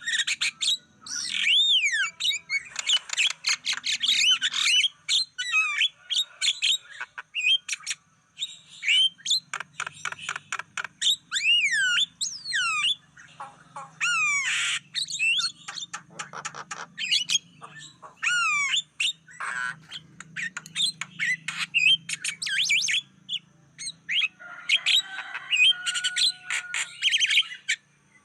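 Javan myna giving a long, varied song: harsh squawks, fast rattling chatter and swooping whistles, with short pauses between phrases.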